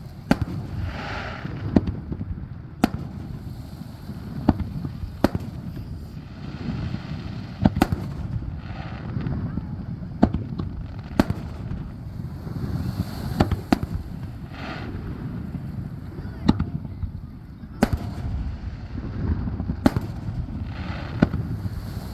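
Fireworks display: aerial shells bursting with sharp bangs about every one to two seconds.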